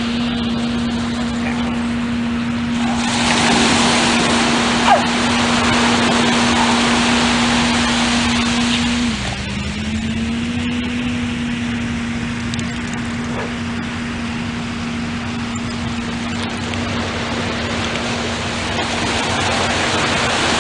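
Heavy sand-moving machine's engine running with a steady hum; its pitch dips briefly about nine seconds in, then comes back up. A broad rushing noise runs under it, louder between about three and nine seconds in.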